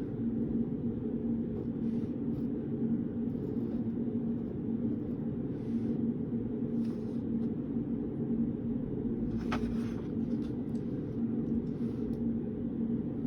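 Steady low hum of study-room background noise, with a few faint clicks, one sharper about nine and a half seconds in.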